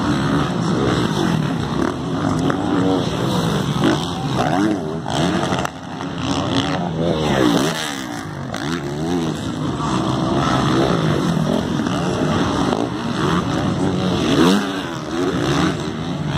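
Several motocross bikes' engines revving hard and shifting, their pitches overlapping and repeatedly rising and falling as they race on the track.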